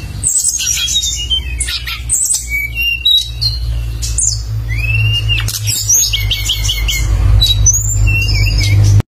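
A songbird singing constantly in a quick run of sharp chirps, upswept whistles and rapid trills, over a steady low hum. The sound drops out briefly near the end.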